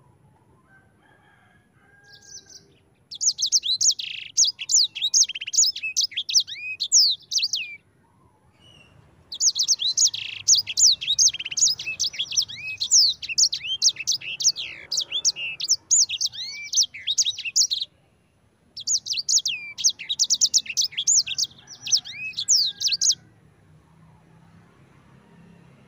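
A sanger songbird sings its rolling 'ngerol' song: long bouts of rapid, high chirps and down-slurred whistles. It comes in three stretches, a few seconds to about eight seconds long, with short pauses between them.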